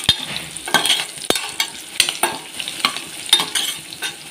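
Chopped ginger, garlic and green chillies sizzling in hot oil, with a spatula stirring them and clicking against the pan several times.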